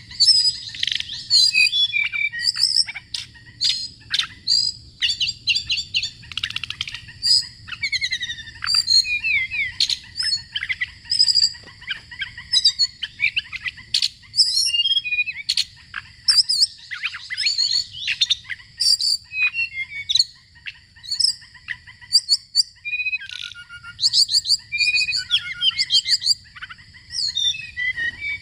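Songbird singing a fast, varied run of chirps, trills and whistles, phrase after phrase with short gaps, over a faint low hum.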